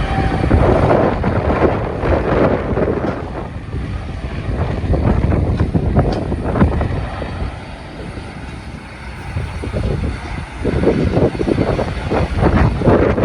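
Strong gusty wind buffeting the microphone over the rumble of a jet airliner's engines; the gusts ease about two-thirds of the way through, then pick up again.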